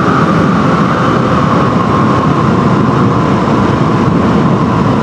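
Dirt bike's single-cylinder engine running under way, its note easing slowly lower over a dense rumble.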